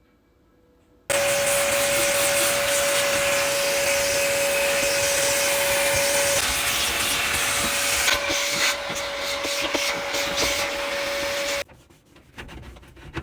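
Vacuum cleaner switched on about a second in, running steadily with a high whine, then switched off near the end; small knocks and rattles in its second half.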